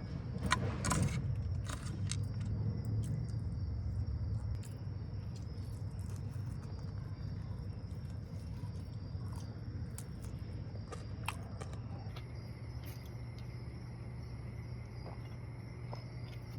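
Outdoor night-time-style ambience: insects chirring steadily in a high band, a second insect joining about two-thirds of the way through, over a steady low hum. A few clicks and rustles of handling in the first couple of seconds.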